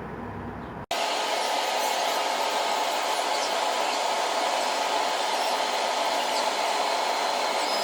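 A steady, even hiss like a blower or hot-air tool, with no low rumble, starting abruptly about a second in after a short stretch of low rumbling noise.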